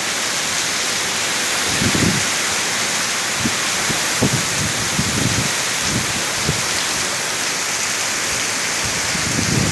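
Heavy rain pouring steadily, with short gusts of wind now and then buffeting the microphone.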